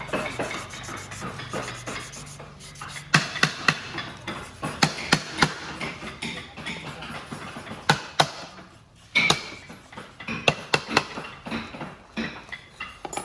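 Irregular sharp knocks, like hammering or striking on a hard surface, coming singly and in quick runs, with a brief pause about nine seconds in.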